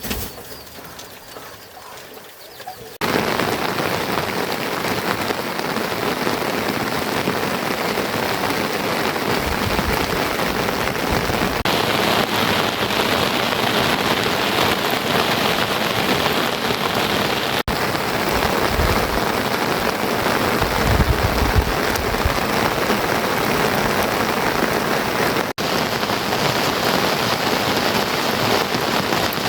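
Heavy rain falling steadily, setting in suddenly about three seconds in after a quieter opening. A brief low rumble comes about twenty seconds in.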